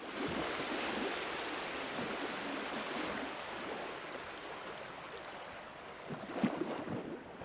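Steady rushing of sea water, slowly fading, with a few faint knocks near the end.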